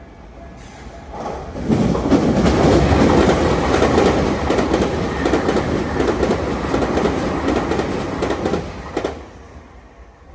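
A Tokyu Meguro Line electric train passing at high speed. Its rumble builds over the first couple of seconds, holds with a rapid clatter of wheels over the rails, then fades away near the end.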